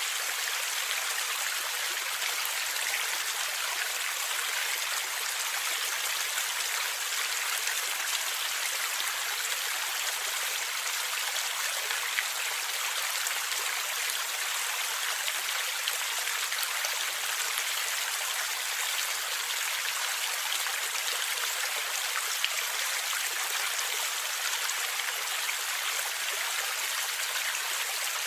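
Stream water flowing and gurgling steadily, with a few faint ticks of droplets.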